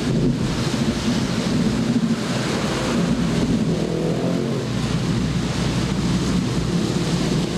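Heavy rainstorm: a dense, steady wash of rain with a low rumble underneath.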